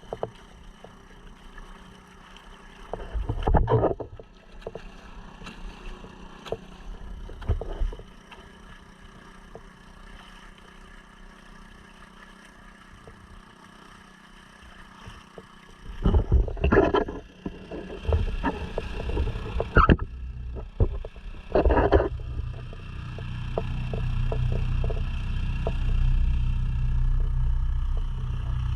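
Honda 2.3 four-stroke outboard on a sea kayak running at a steady pace, with water and wind noise. Sudden loud gusts or splashes hit the microphone several times, and the low rumble grows louder over the last few seconds.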